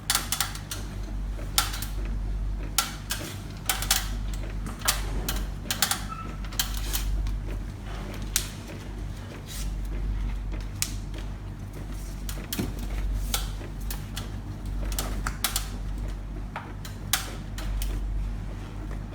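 Irregular sharp clicks and taps, a few of them louder knocks, over a steady low machine hum.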